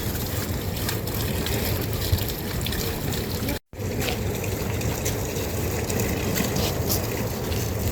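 Steady rush of heavy rain with running, trickling water, with a momentary dropout a little over three and a half seconds in.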